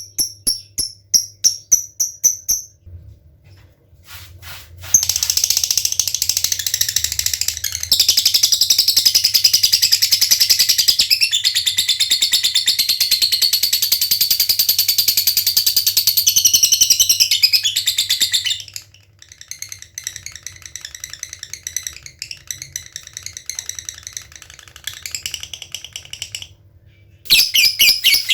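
Lovebird singing: a run of short, quick ticking chirps ('ngetik'), then after a brief gap a long, unbroken high trill ('ngekek') lasting about thirteen seconds, followed by a softer trill and, near the end, ticking chirps again.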